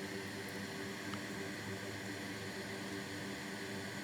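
Steady hiss of blowing air over a low electrical hum, as from a fan or hot-air blower running at a repair bench, with a couple of faint ticks.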